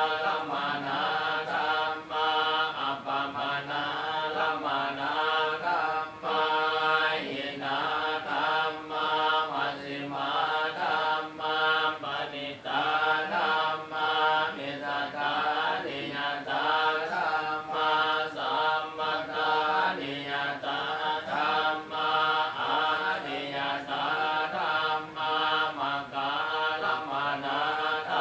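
Buddhist chanting: voices reciting Pali verses together in a continuous, even drone.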